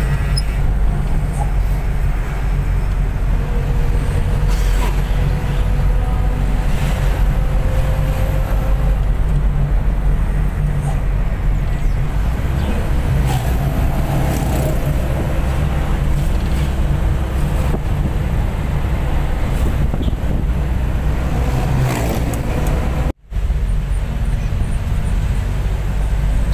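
Intercity bus engine and road noise heard from inside the cabin while driving: a steady, heavy low rumble with scattered small rattles.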